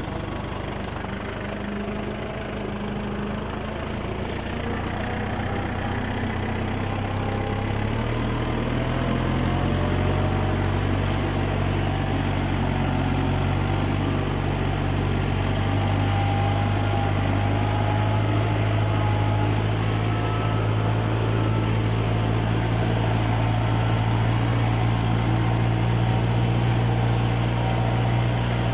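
Tractor engine running steadily; about eight seconds in its pitch and loudness rise a step, as the engine speeds up, and then hold.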